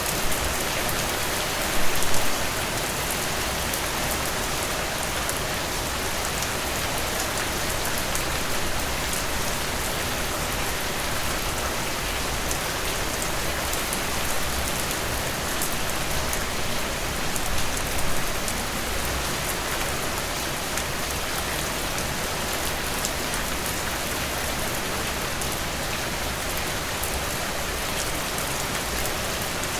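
Heavy rain pouring steadily, a dense hiss of drops hitting surfaces, with brief louder surges about two seconds in and again near eighteen seconds.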